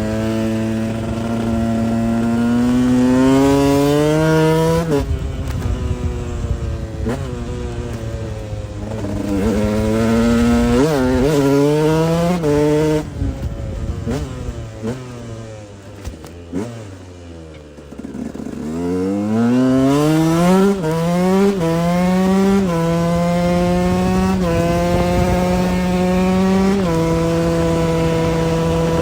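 KTM 125 EXC two-stroke single-cylinder engine accelerating through the gears. The pitch climbs and drops back at each upshift. About halfway through, the revs fall away to a low, quieter note, then the engine picks up again through several more shifts.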